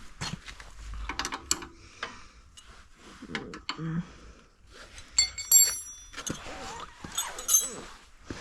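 Hand tools clicking and knocking against a snowblower as a part is taken off, with a short metallic ring about five seconds in and again near the end.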